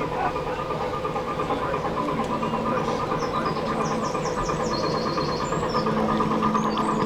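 An engine running steadily with a regular pulsing beat, and a short run of high chirps over it around the middle.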